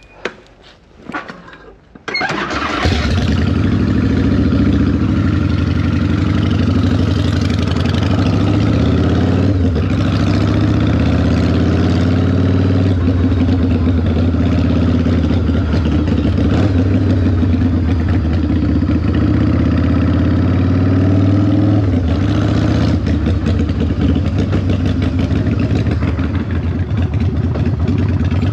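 A cruiser motorcycle's engine starts about two seconds in, after a couple of short clicks. It then runs steadily as the bike rides off, its pitch rising and falling a few times with the throttle.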